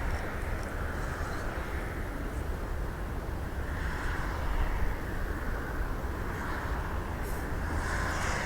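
Steady distant engine noise around an airport: a low rumble with a hiss that swells and fades a little.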